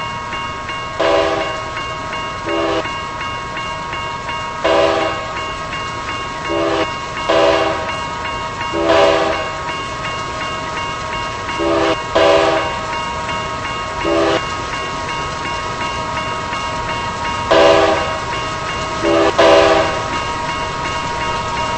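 Long double-stack intermodal freight train rolling past, with a steady high-pitched ringing and short tonal bursts every second or two.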